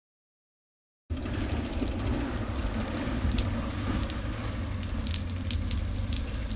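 After about a second of dead silence, heavy freezing rain starts pouring down steadily, with scattered sharp drop ticks and a low rumble underneath.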